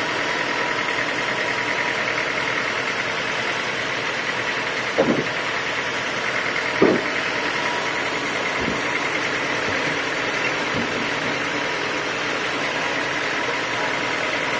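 Homemade sawmill machinery running steadily with a thin, even whine. Two short knocks come through, about five and seven seconds in.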